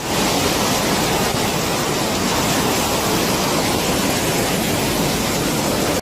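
Rushing floodwater: a loud, steady, even wash of noise.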